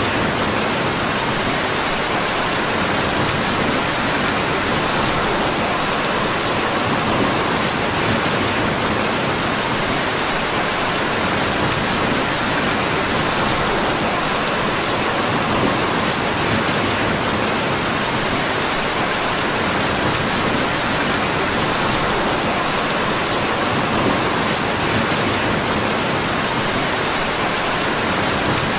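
Steady rain falling, an even, unbroken hiss with a few faint ticks scattered through it.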